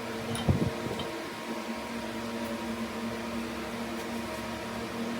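An electric motor running steadily with an even hum, with a single short knock about half a second in.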